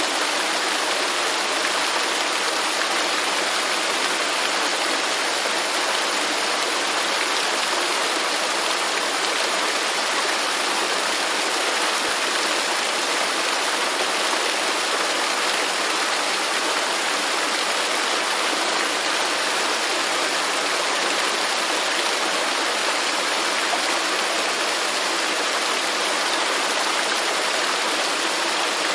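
Waterfall running steadily: an unbroken, even rush of falling water with no changes.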